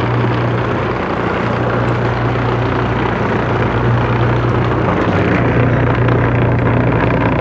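Shop-made 12-inch disc sander's electric motor running steadily at speed on its first test run, a loud, even hum with a rushing whir from the spinning disc.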